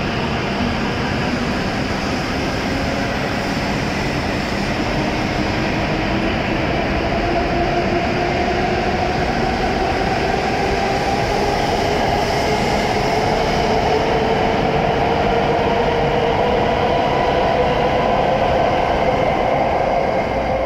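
W7 series Shinkansen pulling out and accelerating: the motor whine climbs steadily in pitch, over the steady rumble of the wheels on the rails.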